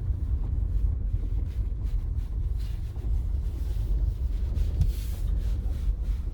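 Low, steady rumble of a car driving along a farm track, heard from inside the cabin.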